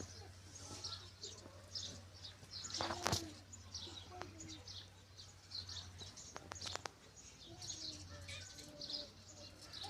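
Small birds chirping over and over, with a steady low hum beneath. About three seconds in there is one brief louder noise, and a few sharp clicks come near seven seconds.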